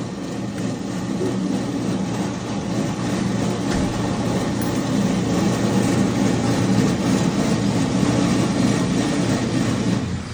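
Steady, fairly loud low mechanical drone with a hum in it, like a motor running, holding even throughout.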